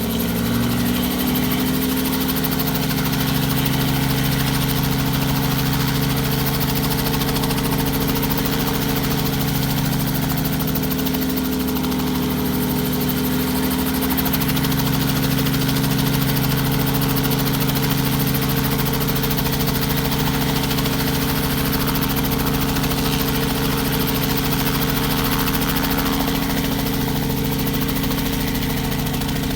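Robinson helicopter's piston engine running steadily, its pitch climbing a little in the first couple of seconds and then holding.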